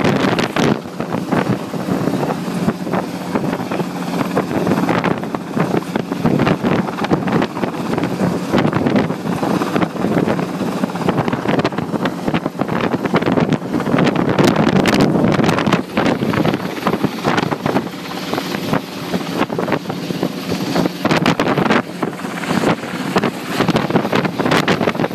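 Helicopter rotors and engine running loudly during takeoff, with a steady low hum and heavy wind buffeting on the microphone.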